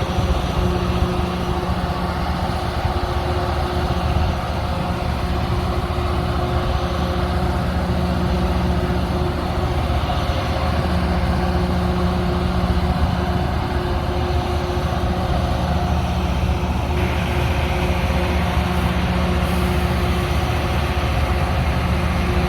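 Diesel engines of a LORAM rail grinder train idling, a loud, steady, deep hum with a tone that swells and fades every few seconds.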